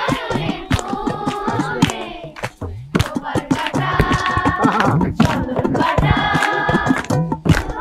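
A group singing together, with sharp hand claps through the song and a brief pause a little over two seconds in.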